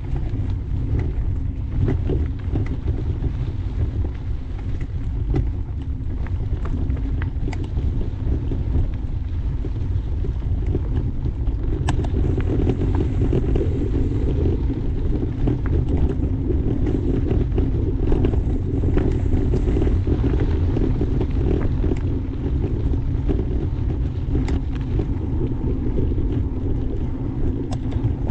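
Mountain bike rolling along a dirt trail: a steady low rumble from the tyres and the riding, with a few sharp clicks from the bike.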